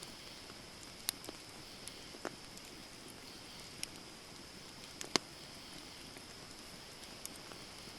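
Wood campfire burning with a steady soft hiss and sharp, irregular crackles and pops, the loudest about a second in and just after five seconds.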